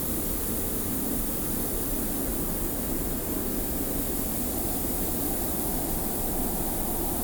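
Steady desert wind with blowing sand: a constant low rush with a fine hiss above it, no gusts or breaks.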